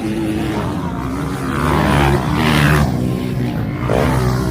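Motocross bike engines revving hard, the pitch climbing and falling as the bikes accelerate and pass, loudest around two to three seconds in.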